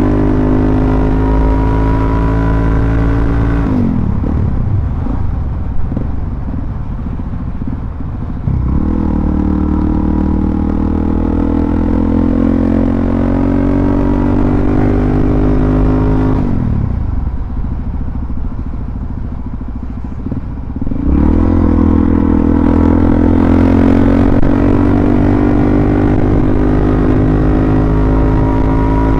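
Suzuki DR-Z400SM's single-cylinder four-stroke engine running under way, pulling steadily on the throttle. Twice, about 4 seconds in and again about 17 seconds in, the throttle closes and the engine coasts with falling pitch for a few seconds before pulling again, its pitch rising toward the end.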